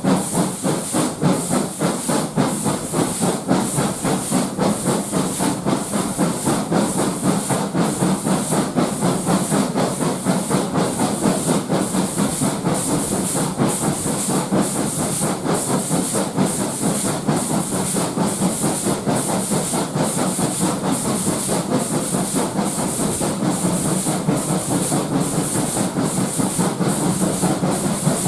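Steam locomotive working, its exhaust beating in an even rhythm of roughly one and a half beats a second over a steady hiss of steam.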